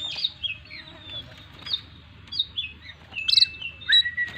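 Oriental magpie-robin (kacer) singing a varied song of short chirps and whistles, packed with mimicked phrases. Two longer, held whistles come about three seconds in.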